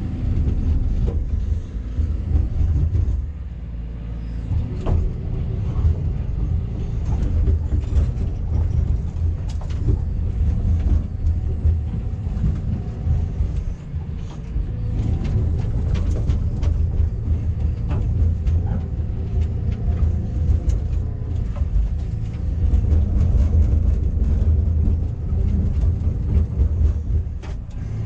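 Backhoe's diesel engine running steadily, its loudness rising and falling as it works under load, with sharp knocks now and then.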